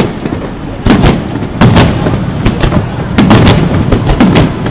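Aerial firework shells bursting one after another in a rapid string of sharp booms, several each second, each trailed by a low rumble.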